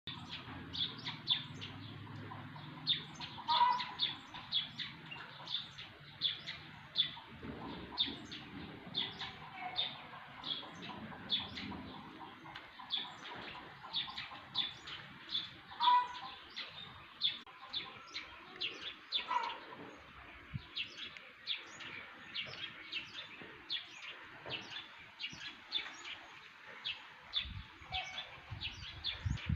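Small birds chirping: a steady stream of short, high chirps, about two a second, with a few lower, louder calls mixed in.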